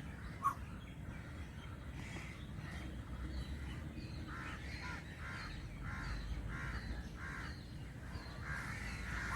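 A bird calling in a run of about eight short, quickly repeated notes starting about four seconds in, with a few more calls near the end.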